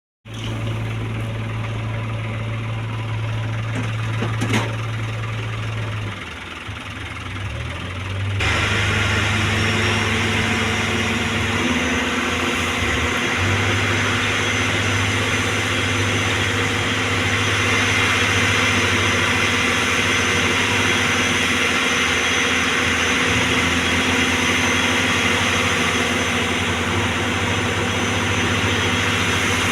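JCB 3DX backhoe loader's diesel engine running steadily, getting louder and fuller about eight seconds in.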